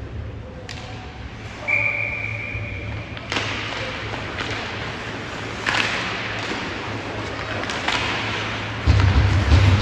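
Referee's whistle blown once, a steady shrill tone about a second and a half long, nearly two seconds in. It is followed by sharp knocks every couple of seconds and heavier thuds near the end, over a steady low arena hum.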